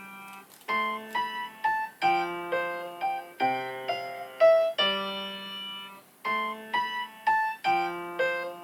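Piano playing a slow melody over chords, each note struck and left to fade, with a brief lull about half a second in.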